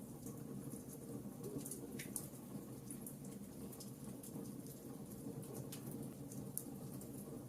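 Wood fire burning in a fireplace: irregular sharp crackles and pops from the burning logs, several a second, over a steady low rumble of flame.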